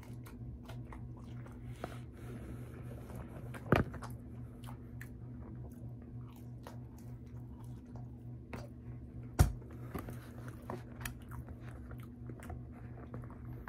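Close-up mouth sounds of a person biting and chewing French fries: wet smacks and small clicks. Two sharp knocks stand out, about four and nine and a half seconds in, over a steady low hum.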